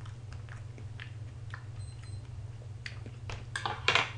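Chewing a whipped-cream-covered strawberry close to the microphone: faint wet mouth clicks over a steady low hum, with two louder short noises near the end.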